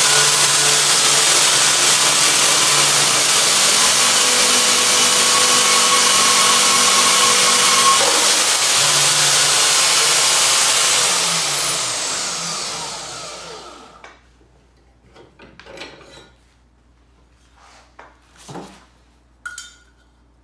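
Portable bandsaw cutting through 2-inch square steel tube with a 0.125-inch wall: a loud, steady run of the blade rasping through the metal for about eleven seconds, then the motor winds down with a falling pitch over the next few seconds. A few light clanks follow near the end.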